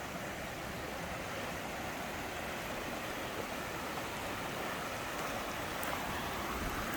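Small mountain waterfall and stream running over rocks: a steady rush of water.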